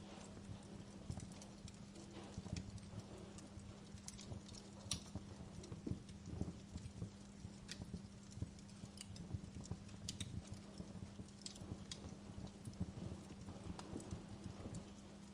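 Wood fire crackling in a fireplace: irregular sharp pops and snaps over a soft, even low rumble of the burning logs.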